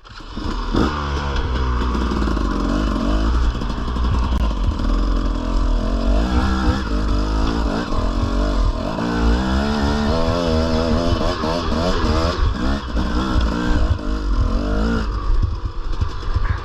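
Dirt bike engine running under way, its revs rising and falling again and again as the throttle is worked, easing off near the end.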